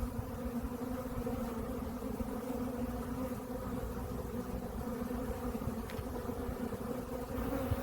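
Honeybees buzzing steadily around the hive, a continuous drone of many wingbeats.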